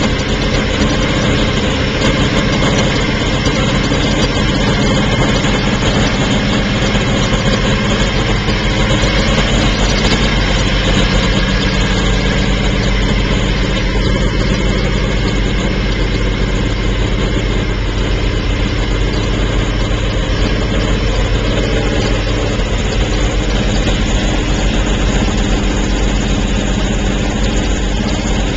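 Porsche 917's air-cooled flat-twelve racing engine idling steadily through its open exhaust pipes.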